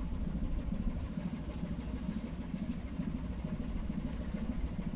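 A ship's engine running with a steady low rumble.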